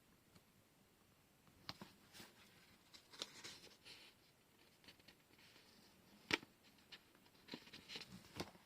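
Faint handling of tape and paper at a craft table: scattered soft rustles and taps, with one sharper click about six seconds in.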